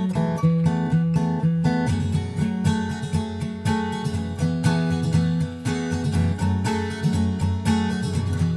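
Background music: a strummed and picked acoustic guitar playing in a steady rhythm.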